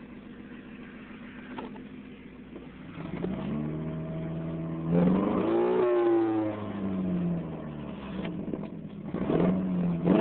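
1994 Chevy Cavalier's 2.2-litre four-cylinder engine, misfiring on about two cylinders because its wet spark plug wires are arcing. It idles quietly, then revs up from about three seconds in. Its pitch climbs to a peak around the middle, falls away over the next couple of seconds, and climbs again near the end.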